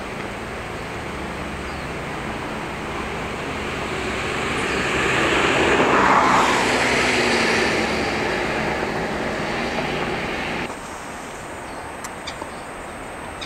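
A motor vehicle passing: steady noise that swells to a peak about six seconds in and eases away again, over a constant rushing background, until the sound drops abruptly to a quieter hiss near the end.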